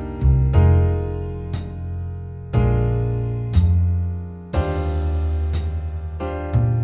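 Slow jazz backing track at 60 bpm: piano chords struck about once a second and left to ring, over low bass notes, with no melody on top.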